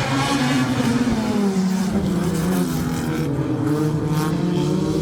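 A field of four-cylinder dirt-track stock cars racing under green, several engines running hard together, their pitch rising and falling as the cars accelerate and pass.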